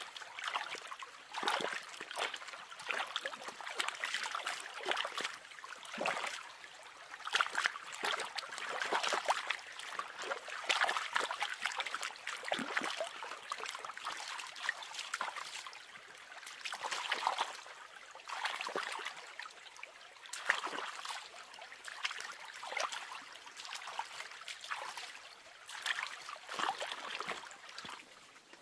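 Water splashing and trickling in an uneven run of small splashes, dribbles and clicks.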